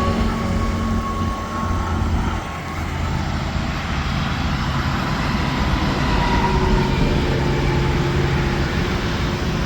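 Interstate traffic passing, mostly semi trucks: steady diesel engine hum over continuous tyre and road noise.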